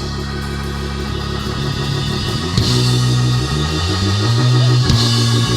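Church praise band playing without singing: held low chords that step to new notes over drums, with a cymbal crash about halfway through and another near the end.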